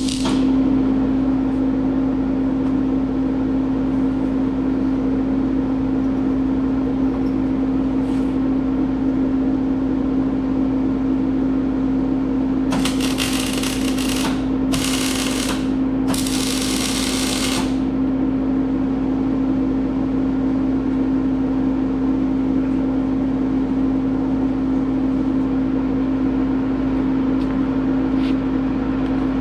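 Gas-shielded arc welding on steel pipe: three short bursts of arc crackle about halfway through, each a second or so long, over a steady hum.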